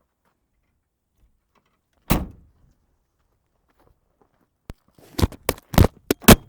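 A car door shutting with a single loud thunk about two seconds in. Then, near the end, a quickening run of crunching steps on icy, slippery snow.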